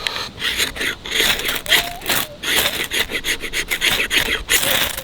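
Repeated rasping strokes of a hand tool cutting into wood, about three strokes a second.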